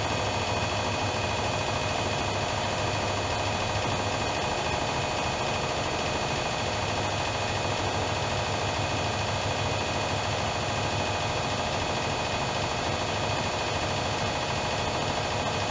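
Privileg Dynamic 7420 washing machine running steadily: an even motor whine with several steady tones over a low hum.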